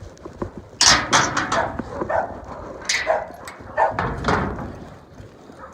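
A dog barking repeatedly, a string of loud barks about a second apart that trails off near the end.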